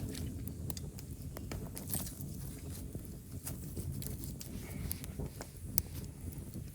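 Wood campfire of dry firewood crackling: irregular sharp pops and snaps over a low, steady rumble.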